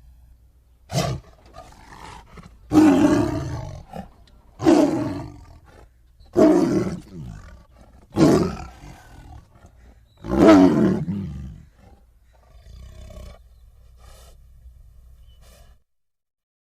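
Tiger roaring in a series of about six loud calls roughly two seconds apart, each falling in pitch, followed by a few fainter calls; the sound cuts off shortly before the end.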